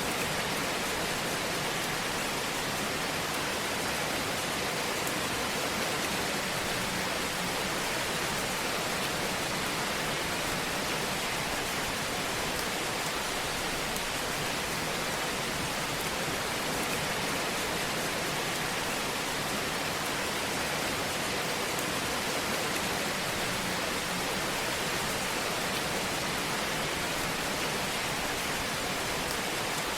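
Fire burning in a fireplace, heard as a steady, even hiss.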